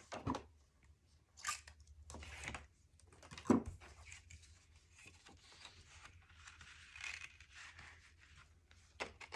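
Cardstock paper being handled and positioned on a work surface: scattered rustling, sliding and crinkling, with one sharper knock about three and a half seconds in.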